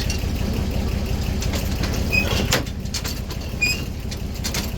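The power unit of a 1907 American sawmill running steadily, with scattered knocks and a couple of short high squeaks from the mill's machinery.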